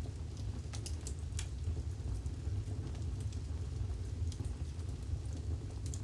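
Wood fire burning in a fireplace: a steady low rumble with scattered sharp crackles and pops every second or so.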